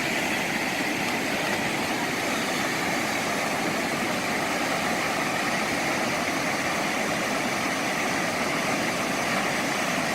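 Cumberland Falls, a large river waterfall, rushing steadily: a constant wash of falling water with no breaks.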